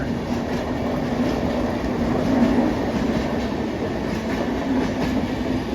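A train running past close by: a loud, steady rumble of wheels on the rails with a steady low hum underneath.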